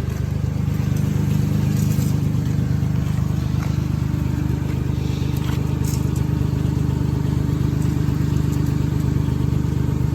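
Vehicle engine idling steadily, a low even hum with no revving.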